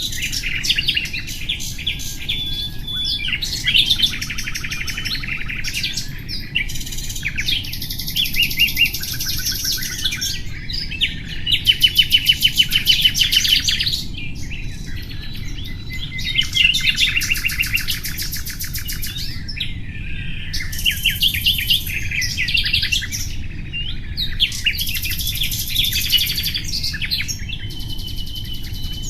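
Nightingale singing a continuous run of varied phrases: clear whistles, high buzzy passages and rapid repeated-note trills, with the loudest fast trill about a third of the way through.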